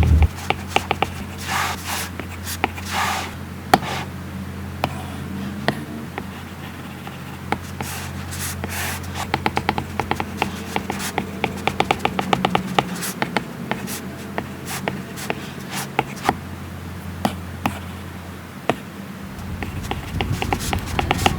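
Stylus tapping and writing on an iPad Pro screen with a Paperlike matte protector: many sharp taps, with a few short scratchy pen strokes in the first few seconds. A low steady hum sits underneath.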